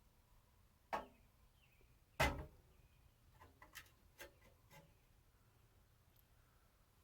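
Two sharp knocks, the second the louder, followed by a quick run of lighter clicks and taps, with faint bird chirps in the background.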